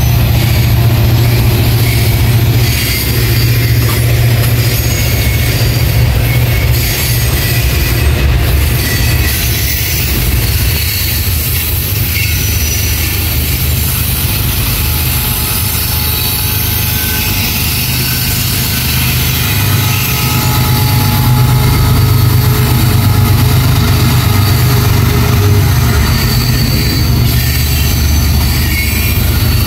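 Freight cars of a slow-moving train rolling past on the rails: a steady low rumble of wheels and cars, with thin high wheel squeals coming and going.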